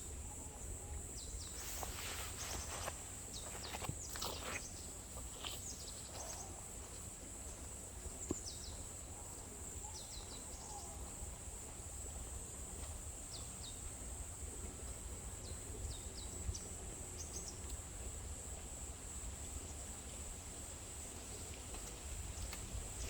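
Forest ambience: a steady high-pitched insect drone with small birds chirping in short calls every second or two, over a low steady rumble.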